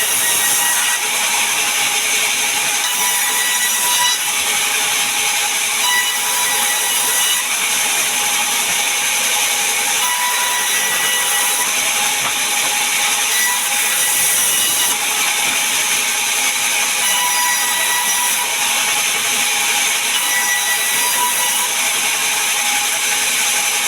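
Sawmill saw cutting through a large mahogany log, a loud steady rasp of blade in wood with a faint ringing whine, running without a break.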